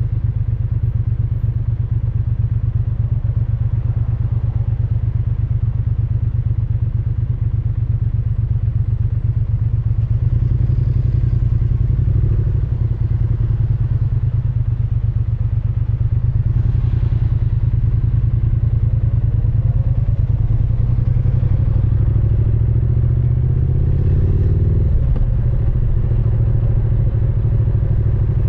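Triumph Speed Twin 900's 900 cc parallel-twin engine and exhaust under way, pulling steadily. Near the end it rises in pitch as it accelerates, then drops abruptly at a gear change.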